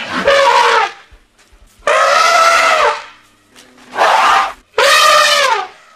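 African elephant trumpeting: four loud, brassy blasts a second or so apart, each under a second long and sliding down in pitch at its end.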